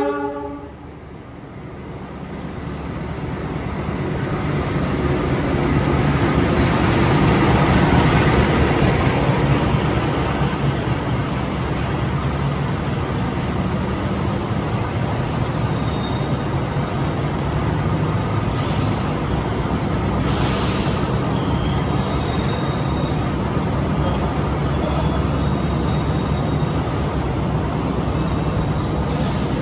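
Diesel-hauled train running on the rails: the rumble builds over the first eight seconds or so, then holds steady. Short air-brake hisses come twice near the middle and once near the end.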